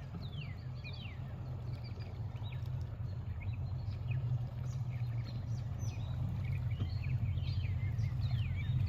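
Birds calling with many short, falling chirps, over a steady low hum.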